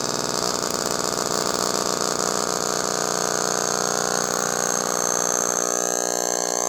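Homemade magnetron rig, powered by a microwave oven transformer, buzzing loudly and steadily while energised. About five and a half seconds in the buzz turns cleaner and a little louder. This is the long run that the owner afterwards believes burnt out the magnetron.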